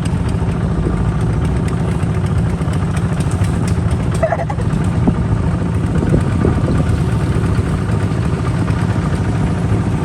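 Kubota RT 140 DI single-cylinder diesel engine of a hand tractor running steadily with a fast, even chug.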